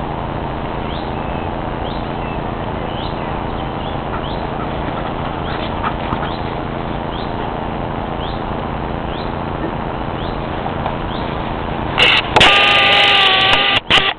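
A small bird's short rising chirp repeating about once a second over a steady rushing background. Near the end a much louder call with a steady pitch is held for about a second and a half, then cuts off suddenly.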